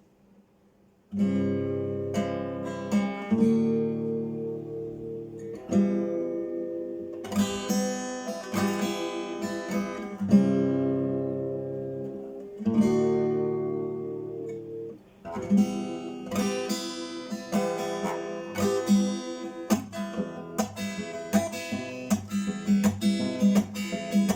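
Acoustic guitar playing a song's instrumental introduction, starting about a second in. It plays ringing chords at first, then from about 15 seconds in a quicker, busier strumming pattern.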